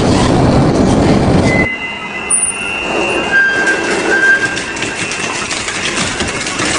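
Double-shaft shredder tearing through scrap metal: dense, heavy grinding that cuts off abruptly about two seconds in, followed by scraping with high metal-on-metal squeals.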